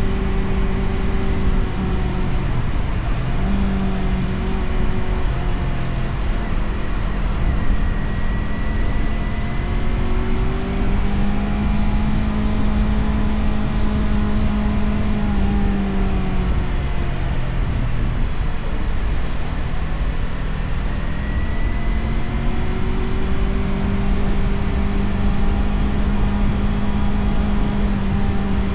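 Motorcycle engine running at road speed under a steady rush of wind noise. The engine note drops and climbs back a few seconds in and again past the middle, as the rider eases off and gets back on the throttle.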